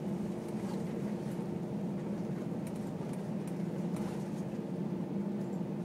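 Steady low cabin hum of an Airbus A320 rolling on the ground after landing, with a faint steady tone over it and a few light clicks.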